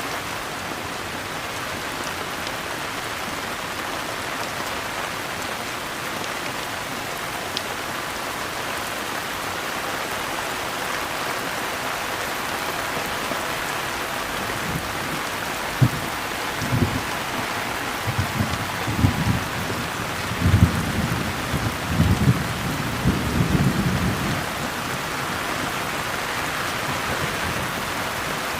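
Steady rain falling. From about halfway through, a low rumble of thunder comes in a series of uneven peaks for about ten seconds, then the rain carries on alone.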